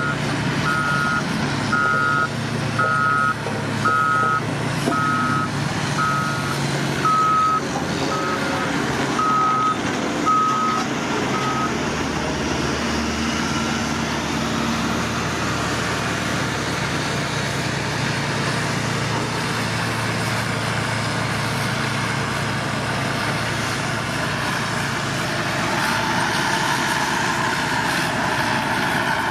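Reversing alarm on heavy construction machinery beeping about once a second, stopping about twelve seconds in, over the steady running of the machines' engines.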